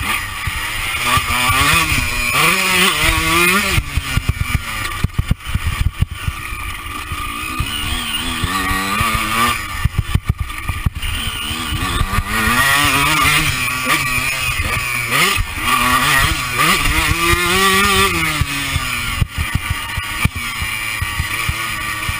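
Honda CR125 two-stroke single-cylinder engine revving hard and falling off again and again as the dirt bike is ridden round a motocross track, with wind buffeting the body-mounted microphone.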